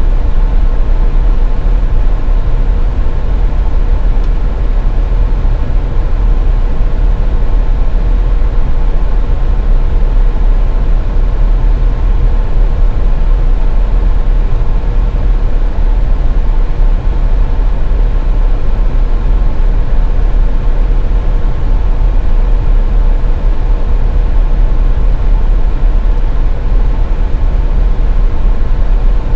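Steady driving noise of a car on the highway: a constant low rumble of road and engine noise with a faint steady hum.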